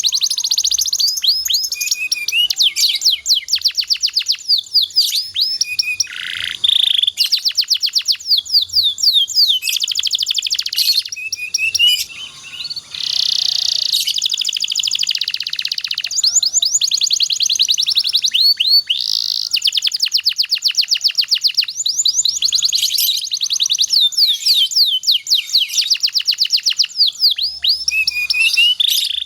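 Domestic canary singing a long, fast song of rapid trills and rolls made of quickly repeated sweeping notes, with a brief break about twelve seconds in.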